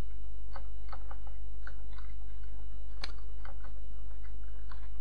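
Computer keyboard typing: irregular keystroke clicks, one louder click about three seconds in, over a steady low hum.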